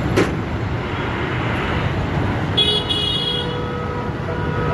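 Road traffic rumbling steadily, with a vehicle horn sounding once for under a second about midway and a short sharp knock right at the start.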